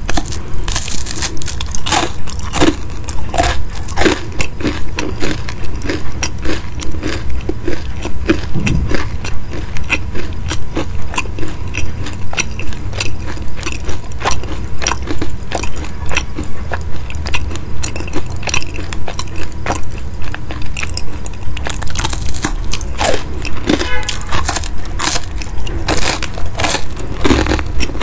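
Close-miked crunching and chewing of crisp chicken cutlet slices: sharp crackly bites followed by steady open-mouthed chewing in a regular rhythm of about two chews a second.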